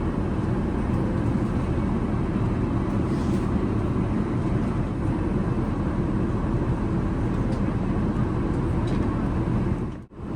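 Steady low rumble of airliner cabin noise inside an Airbus A380. It drops out abruptly for a moment about ten seconds in.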